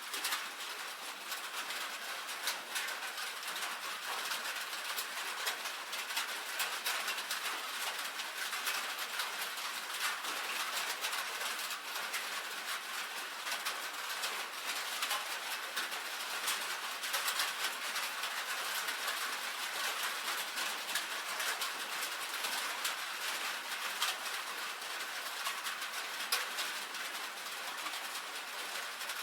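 Rain on a tin roof: a dense, steady patter of drops ticking on metal.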